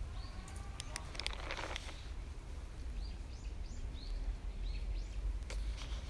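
Songbirds giving a series of short chirps, mostly in a quick run about three to four and a half seconds in, over a steady low rumble. A few sharp clicks and a brief rustle come about a second in.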